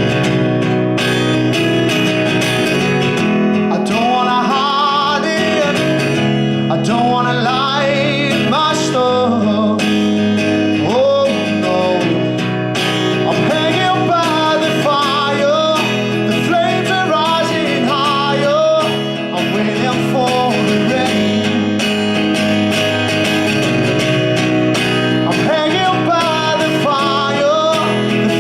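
A man singing live over a strummed acoustic guitar, the held sung notes wavering through most of the passage.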